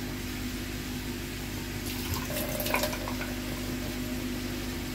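Chicken pota and liver frying in a pan over a gas flame, a steady sizzle with a low hum under it and a few light clicks about two to three seconds in.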